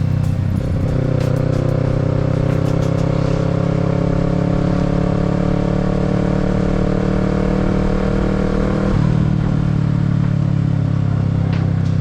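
Kawasaki Z650 parallel-twin engine running under way, its note climbing slowly as the bike pulls in gear, then changing abruptly about nine seconds in before running steady again.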